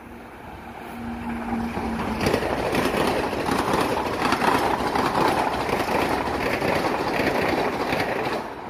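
Long Island Rail Road train rumbling past on the main line, with rolling wheel and rail noise. It builds about a second in, stays loud for about six seconds, and falls away near the end.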